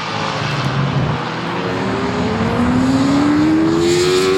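Classic racing motorcycle engine accelerating hard on the track, its pitch rising steadily over the last couple of seconds.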